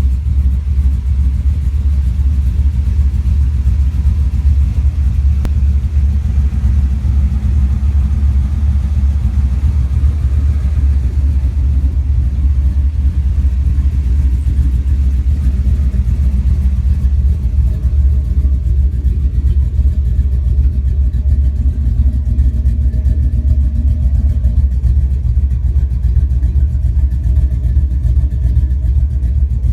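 2004 Cadillac Escalade V8 with a BTR Stage 3 truck cam, idling steadily and loudly through cut catalytic converters, an X-pipe and dumped Flowmaster Super 40 mufflers, giving a deep exhaust note.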